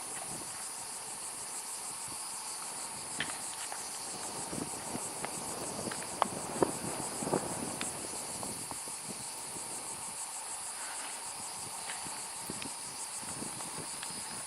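Insects chirring in a steady, high, finely pulsing trill, with a few scattered soft taps or knocks, the sharpest about six to seven seconds in.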